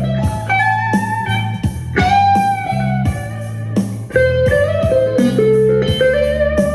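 Bluesy electric guitar music: a lead guitar playing held notes with bends over a bass line, with a steady beat.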